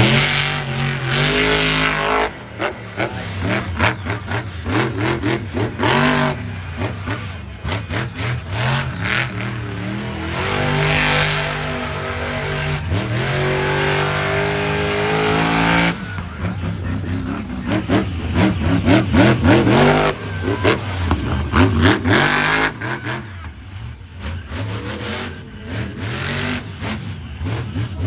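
Monster truck engine revving hard, its pitch climbing and falling again and again, loudest a little past the middle.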